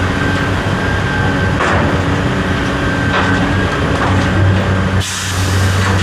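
An engine running steadily with a thin whine over it, and a few knocks about one and a half, three and five seconds in.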